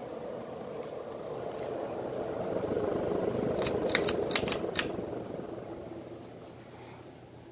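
Evergo 36-inch ceiling fan running, its steady noise swelling and then fading away through the second half as it slows down. A quick series of five or six sharp clicks comes about four seconds in.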